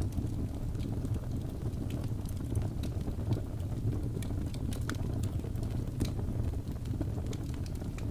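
Wood fire crackling: scattered sharp pops and snaps, irregular and several a second, over a steady low rumble.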